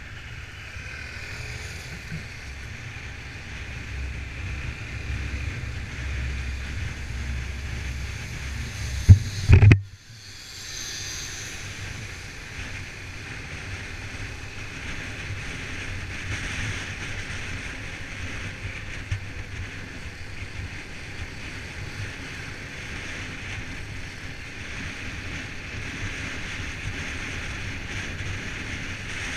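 Steady outdoor noise, with a low wind rumble on the microphone through the first nine seconds. Two loud knocks come about nine seconds in, and the sound then cuts off suddenly. A steady hiss follows for the rest.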